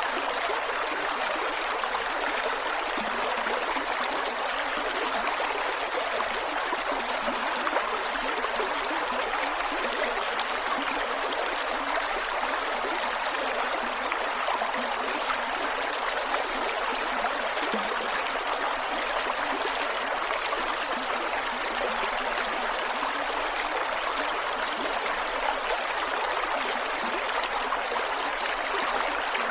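Creek water flowing and gurgling over rocks, a steady rushing babble.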